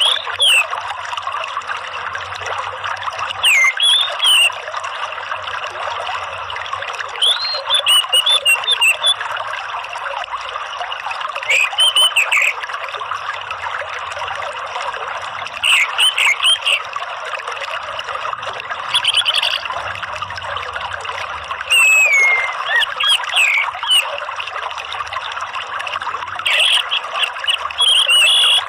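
Steady trickling, running water with short, sliding orange-headed thrush calls breaking in every second or two. It is a lure track meant to set a caged thrush singing.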